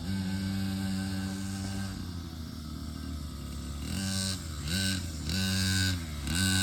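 Dirt bike engine running at a steady pitch. In the last few seconds its pitch dips and picks back up three times.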